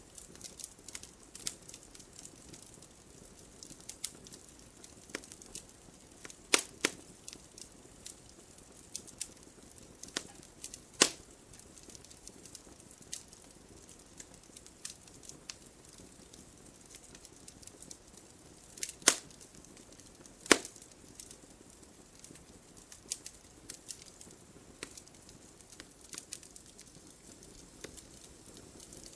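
Wood fire crackling in a fireplace: irregular small snaps over a soft steady hiss of the flames, with a few louder pops, two close together about seven seconds in and two more near twenty seconds in.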